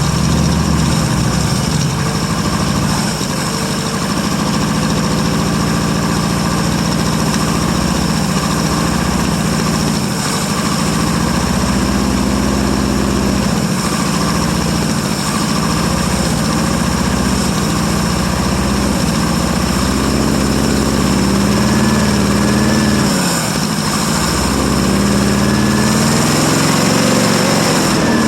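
1959 International B120 pickup's engine running on its first cold start in about five years, its speed rising and falling as the throttle is worked. It is fed by gas poured into the carburettor because the fuel system is not yet delivering fuel.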